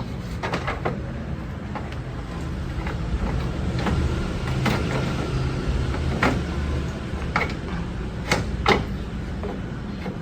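A steady low mechanical hum with scattered sharp clicks and knocks, the loudest a pair about eight and a half seconds in.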